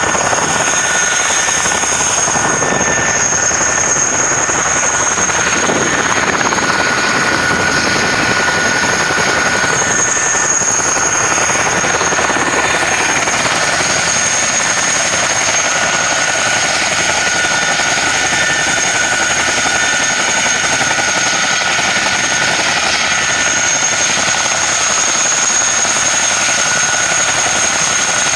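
Helicopter running steadily, with a constant high-pitched whine over the dense noise of its engine and rotor.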